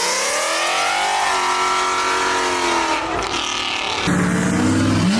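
A car engine revving hard under acceleration: its pitch climbs, levels off, drops about three seconds in, then climbs sharply again near the end.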